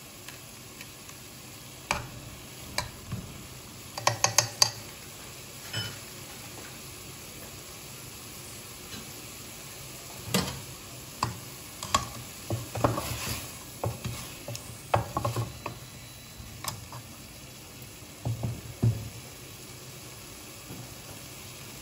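Chicken and vegetables frying in a metal pot with a steady soft sizzle, while a spoon stirs them, knocking and scraping against the pot in irregular clatters and short runs of clicks.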